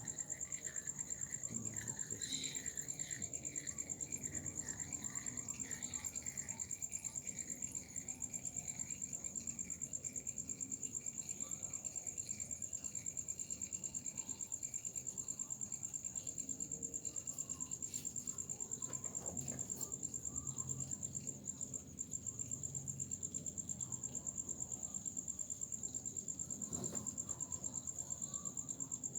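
A cricket chirping without pause: a high-pitched, rapidly pulsing trill that keeps an even rhythm throughout.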